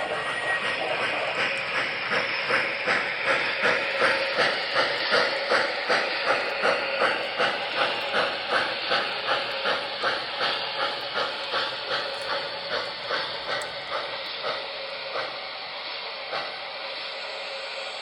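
Sound-equipped model steam locomotive chuffing steadily, about three chuffs a second over a steam hiss. The chuffs fade away in the last few seconds.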